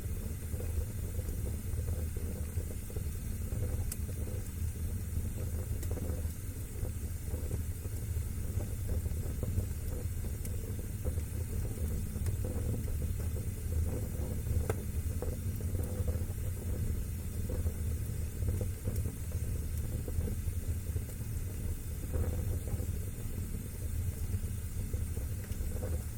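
Wood fire burning in a fireplace: a steady low rumble of flames with occasional faint sharp crackles and pops.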